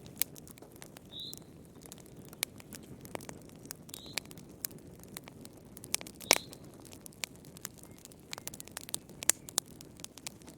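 Wood fire crackling in a fireplace: irregular sharp pops and snaps over a low, steady sound of burning. One pop a little past the middle is much louder than the rest, and three short high-pitched squeaks come about three seconds apart.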